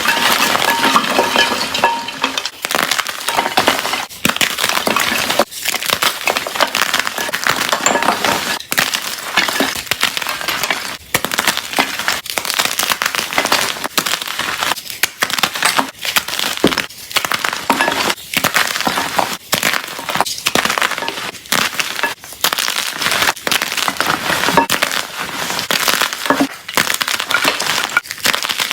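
Blocks of gym chalk being crushed: a dense, continuous crunching and crackling, broken by short pauses every second or two.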